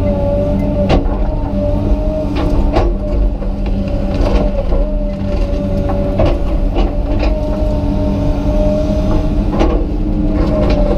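Komatsu PC200 excavator's diesel engine running under load with a steady hydraulic whine that wavers slightly in pitch. Sharp knocks and clicks come about half a dozen times.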